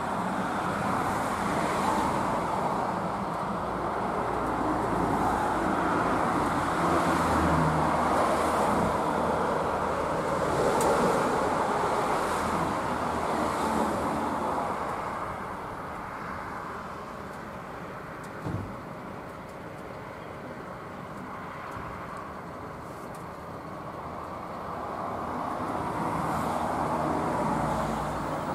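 Steady rumbling vehicle noise, loudest over the first half, with one sharp click about two-thirds through. Near the end a red electric multiple-unit regional train approaches along the track and its running noise grows louder.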